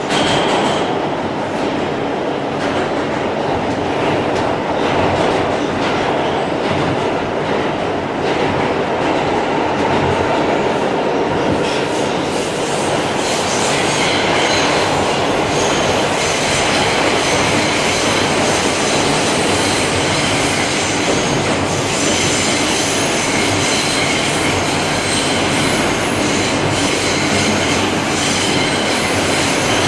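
New York City Subway G train running along the track, with wheels clattering over the rails. From about the middle on, a high-pitched wheel squeal rides over the running noise.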